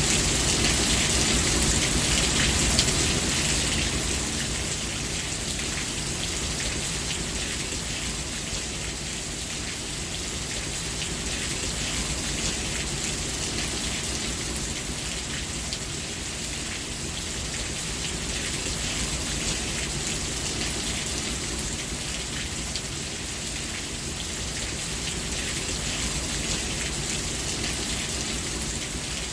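Steady rainfall: a dense, even hiss of rain with the fine patter of drops on a surface. It eases slightly after the first few seconds.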